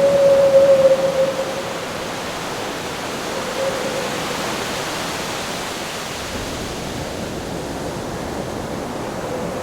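Howling wind over surf: a steady rushing noise with a thin whistling tone of wind that swells in the first second and briefly again a few seconds in.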